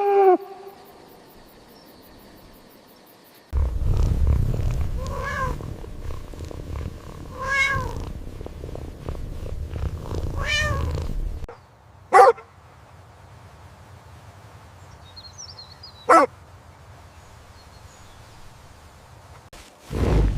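Domestic cat purring with a low, steady rumble while it meows three times. Then, after the purring stops, two short, sharp cries come about four seconds apart.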